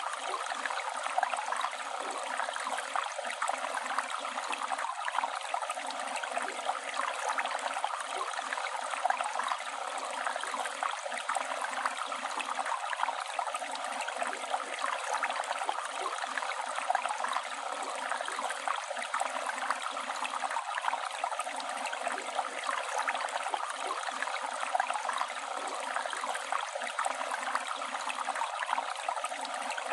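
Flowing river water: a steady, even rush with fine splashing detail and hardly any low rumble.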